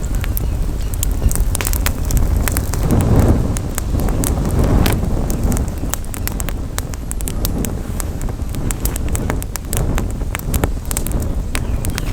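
Wood campfire crackling, with frequent irregular sharp pops and snaps, over a low rumble of wind on the microphone that swells a few seconds in.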